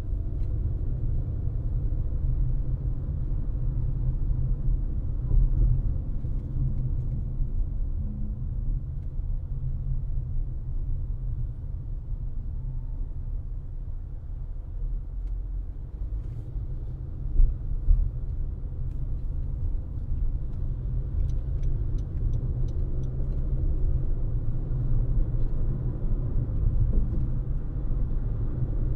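Car driving at road speed, heard from inside the cabin: a steady low rumble of tyres and road noise. There are two brief thumps a little past halfway, and a short run of faint, evenly spaced high ticks about three-quarters of the way through.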